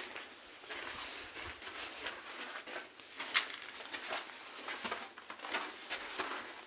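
Footsteps, a run of short, uneven crunching steps with a sharper crunch about three and a half seconds in.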